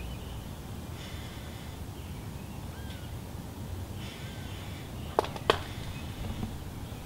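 Red-bellied woodpecker nestlings giving raspy, buzzy begging calls in two bursts of about a second each, a few seconds apart. About five seconds in come two sharp knocks close together, the loudest sounds here.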